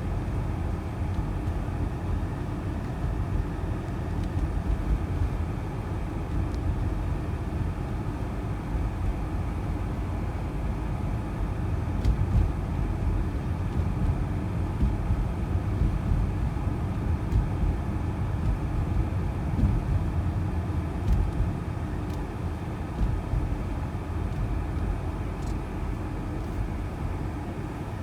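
Blizzard wind gusting on the microphone: a steady low rumble whose loudness surges and eases with the gusts.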